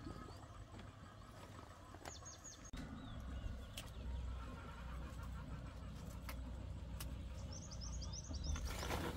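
Small birds chirping in short runs of quick, high, falling calls, about two seconds in and again near the end, over a steady low rumble. Near the end, a brief splashing rush of pond water.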